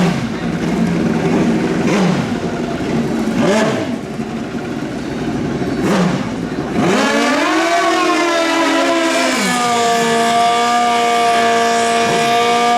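Drag-racing motorcycle engines revving in short throttle blips, each note dipping and rising. About seven seconds in, one engine climbs and holds a steady high-revving note.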